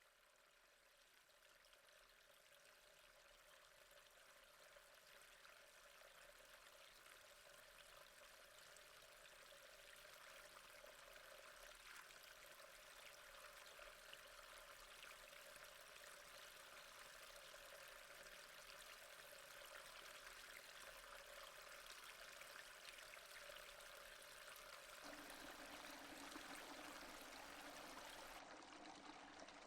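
Steady rain falling, with no thunder, fading in gradually from faint and growing louder.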